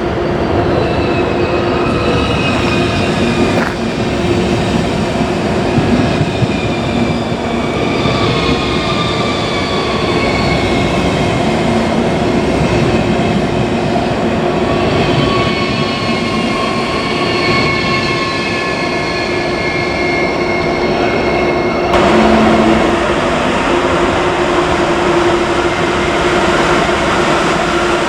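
Train moving through the station: steady running noise with a low hum and several high whining tones that slowly fall in pitch. About twenty-two seconds in, a sudden louder hiss sets in.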